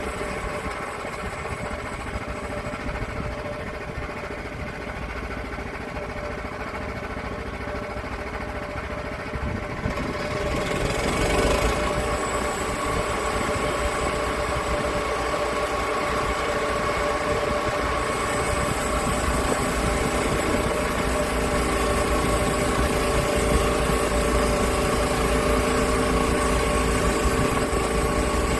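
Sawmill's small gas engine running steadily, growing louder and brighter about ten to twelve seconds in.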